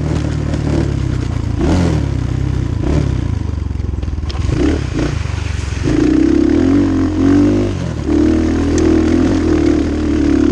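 250cc Chinese dirt bike engine running hard along a trail, the revs rising and falling as the throttle opens and closes, louder over the last few seconds, with some rattling over rough ground.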